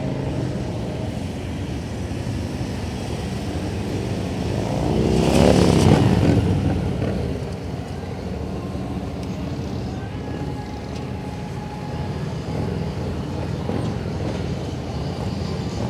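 Police motorcycle engine running at low speed through a cone course, swelling loudest about five to six seconds in, then easing back to a steady run.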